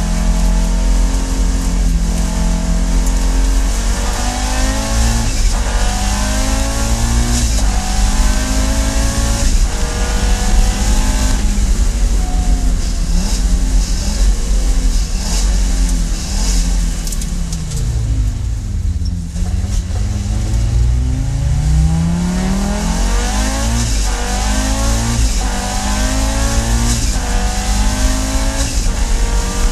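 Audi Sport Quattro S1's turbocharged five-cylinder engine accelerating hard through the gears, its pitch climbing and dropping back with each quick upshift. About two thirds of the way through the revs fall away steadily as the car slows, then it climbs through the gears again.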